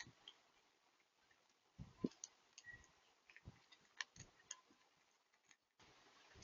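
Birds pecking seed and hopping on a bird feeder, heard as scattered faint taps and clicks with a couple of light knocks, through the feeder camera's built-in microphone.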